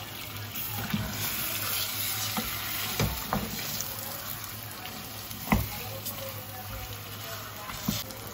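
Chicken wings sizzling as they are sautéed in spice paste in a pan, a steady frying hiss. A utensil stirring them knocks against the pan a few times, most sharply about five and a half seconds in.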